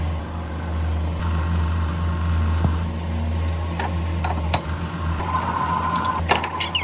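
Workshop machinery running with a steady low hum, with a few sharp metallic clicks and knocks in the second half.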